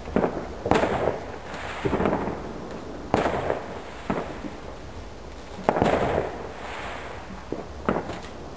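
Fireworks going off: about six sharp bangs spread over several seconds, each trailing off quickly.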